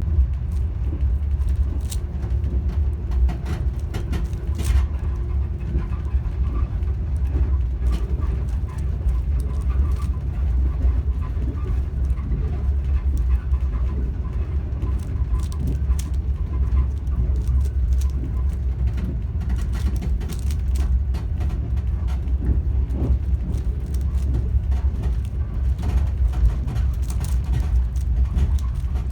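Steady low rumble of a moving train heard from inside the carriage, with scattered light clicks from a Rubik's cube being turned.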